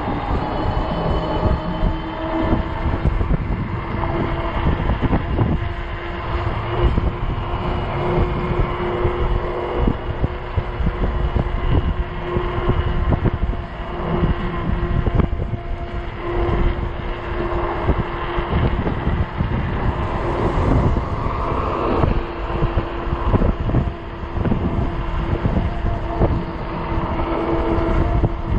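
Ecotric 48-volt fat-tire e-bike riding at a steady speed: a constant whine from its hub motor over the rumble of the fat tires, with strong gusting wind buffeting the microphone.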